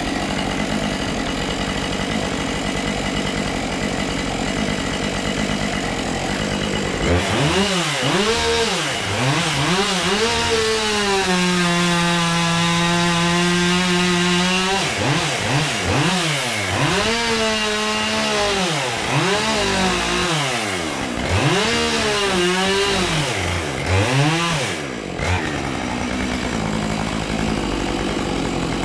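Two-stroke chainsaw idling, then revved up and down repeatedly and held at high revs for several seconds while cutting into a birch, before dropping back to idle near the end.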